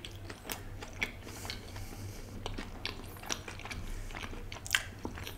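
Close-miked chewing of a fried pizza pocket with the mouth closed: soft, irregular wet clicks and small crackles, with one sharper click near the end.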